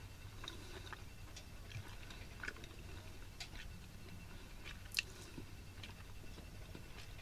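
Quiet close-up chewing of a soft, processed chicken patty, with scattered small mouth clicks and one sharper click about five seconds in.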